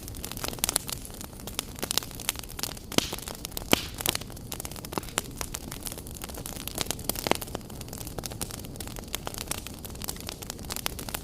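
Wood fire crackling in a fireplace: irregular sharp pops and snaps over a steady hiss, a few pops noticeably louder than the rest.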